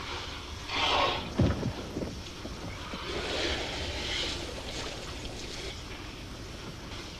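Elephants blowing water and mud out of their trunks at a dug water hole. There is a loud spraying rush about a second in, with a short falling low sound just after it, and a second, softer spray a few seconds later.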